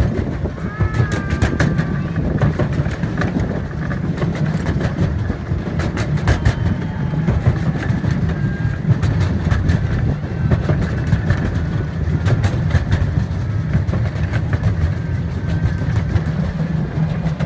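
Miniature park train rolling along its track, heard from aboard: a steady low rumble with irregular sharp clicks of the wheels over the rails.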